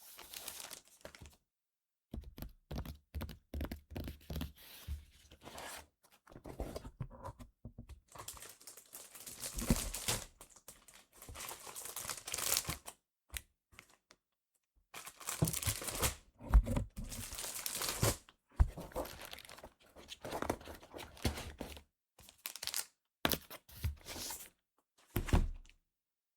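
Trading card packaging being torn open and crinkled by hand: irregular tearing and crinkling rustles with short pauses and a few soft knocks.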